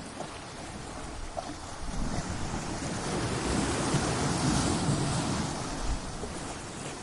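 Ocean waves breaking against rocks: a wash of surf that swells about two seconds in, peaks in the middle and falls back near the end.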